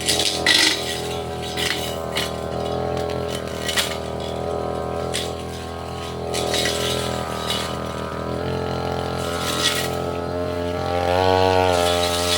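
Petrol brush cutter running steadily, its metal blade cutting through undergrowth with scattered sharp clicks and clinks as it strikes stems. The engine revs up near the end.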